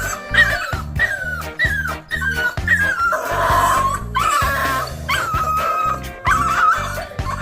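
Puppies whining and yipping in a run of short falling cries, about two a second, with a longer, rougher cry in the middle, over background music with a steady beat.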